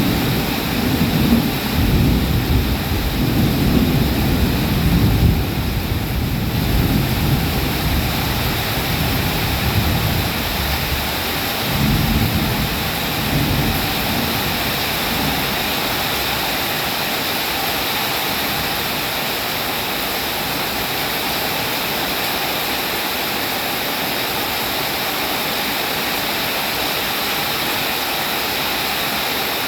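Steady rain with rolling thunder rumbling low beneath it in the first half; the rumble dies away about halfway through, leaving an even rain hiss.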